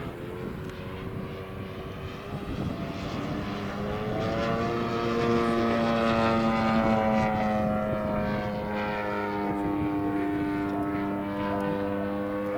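Radio-controlled model airplane in flight, its motor and propeller giving a steady buzzing tone whose pitch slowly drifts up and down as it flies past. It grows louder partway through and is loudest around the middle.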